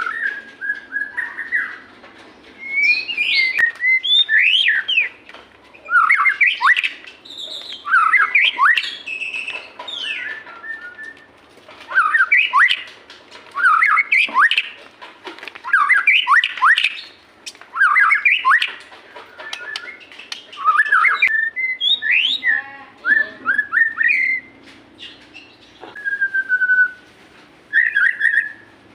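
White-rumped shama (murai batu) singing in loud phrases of fast, rising and falling whistled notes, one phrase after another with short pauses between. This is the full, continuous 'gacor' song.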